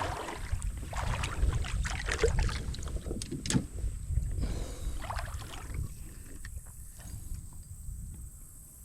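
Handling noise in a small paddle boat on the creek: a run of light knocks and clicks against the hull and gear, with one sharper click about halfway, thinning out and growing quieter over the last few seconds.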